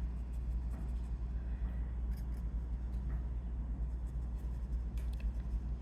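Steady low electrical hum, with faint scratches and a few light taps of a watercolor brush dry-brushing on paper.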